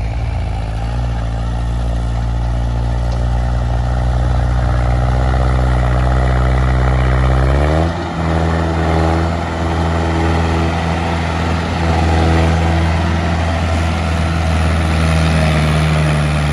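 Tractor diesel engine running under load, its speed rising steadily for about eight seconds, then dipping briefly and settling at a higher steady speed.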